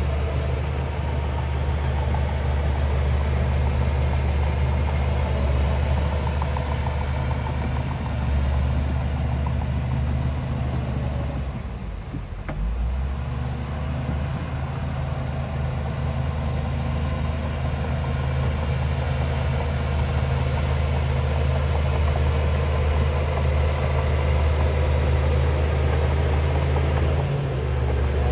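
Heavy diesel engine of earthmoving machinery running steadily, easing off briefly about twelve seconds in before picking up again.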